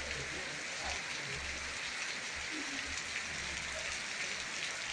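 Steady rain falling, with the patter of drops striking surfaces.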